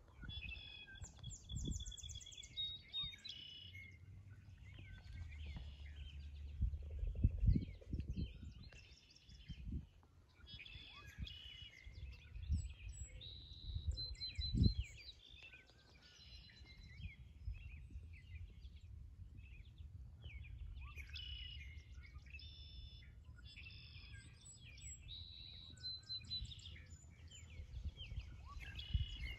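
Several birds chirping and trilling, a dawn chorus, over a low rumble, with two dull thumps about seven and a half and fifteen seconds in.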